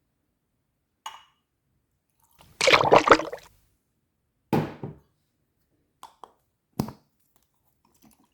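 Wood fire in a fireplace crackling: a handful of separate pops and snaps, the loudest a dense run of crackles about three seconds in, with quiet gaps between.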